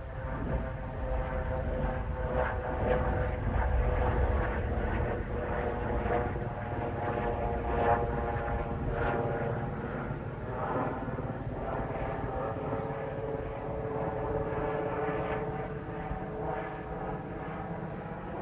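Civilian helicopter flying over at altitude: a steady drone of engine and rotor with several held tones over a low rumble, loudest in the first half and easing off slightly near the end.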